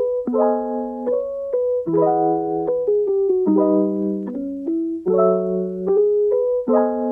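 Background piano music: a gentle chord pattern, a new chord struck roughly every second.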